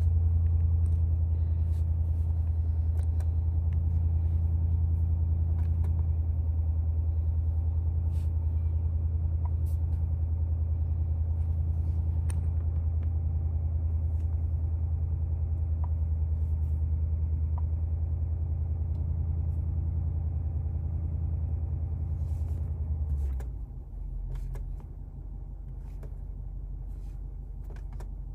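BMW M850i's 4.4-litre twin-turbo V8 idling in Park, a steady low hum heard from inside the cabin, with a few faint clicks. About 23 seconds in the hum drops lower and quieter as the idle speed settles.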